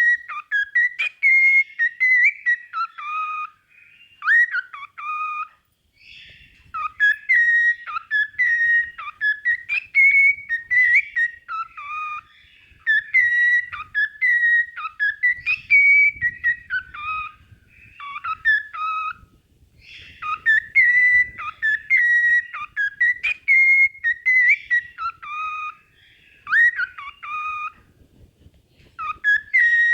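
Cockatiel whistling its song: clear, pitch-shifting whistled notes in repeated phrases, broken by a few short pauses.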